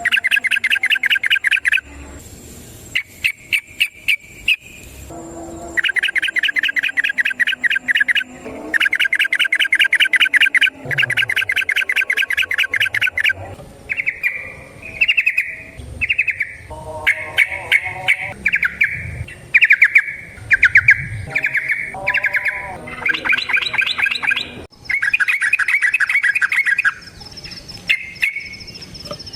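Yellow-vented bulbul (trucukan) singing its fast rattling 'ropel' song: repeated runs of quick, clear notes, each run lasting one to a few seconds, with short pauses between.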